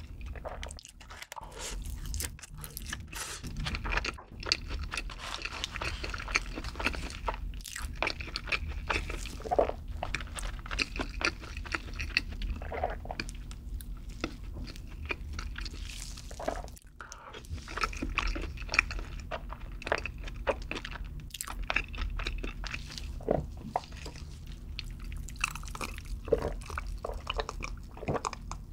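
Close-miked chewing of garlic butter french fries: a continuous run of small crunches and mouth clicks.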